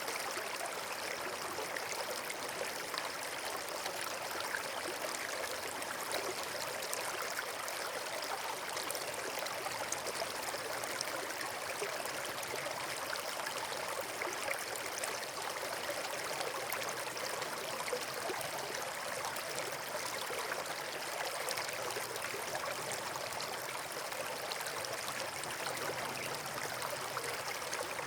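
Steady rushing of running water, like a stream or small waterfall: an even hiss with no breaks.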